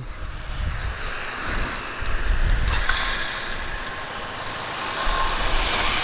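Motorcycle on the road: a steady rumble of wind on the helmet-camera microphone mixed with engine and road noise, with a faint steady tone in the middle.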